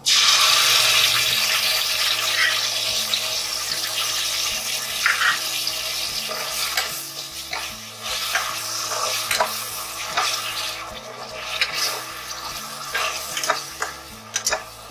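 Wet spice paste hitting hot oil in a steel pan: a sudden loud sizzle that slowly dies down while a spatula scrapes and taps against the pan as the paste is stirred through the onions.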